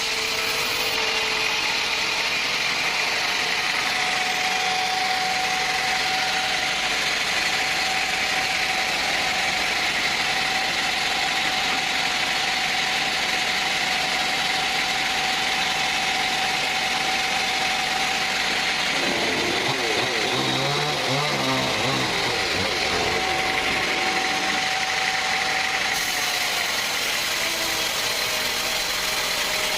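Sawmill machinery running steadily, an engine driving the saw through the wood, with a brief lower, uneven stretch about two-thirds of the way in.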